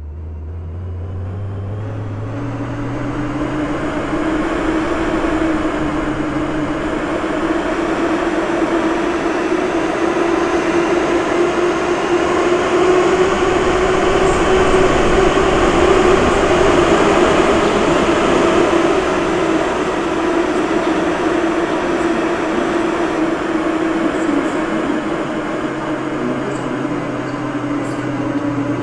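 Moscow Metro train under way: traction motors whine upward in pitch as it accelerates over the first few seconds, then a steady loud rumble of wheels and running gear at speed that is loudest around the middle and eases off slightly near the end.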